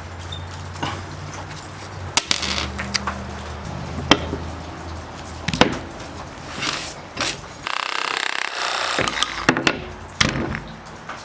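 Workshop handling sounds: a run of sharp separate clicks and knocks of tools or parts being picked up and set down, a low hum that stops about three and a half seconds in, and a brief rushing noise a little after the middle.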